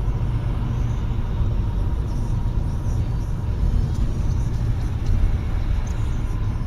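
A car driving, with a steady low rumble of engine and road noise heard from inside the cabin.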